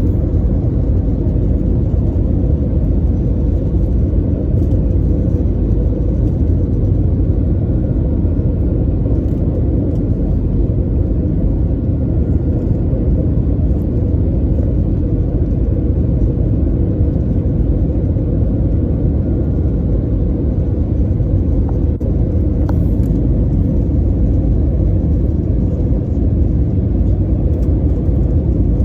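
Airbus A320 cabin noise on approach: a steady, loud low rumble of engines and airflow with a faint steady hum, unchanging throughout.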